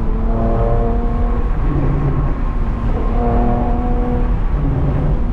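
A motor vehicle engine running steadily, a continuous low rumble with a few steady tones that shift pitch every second or two.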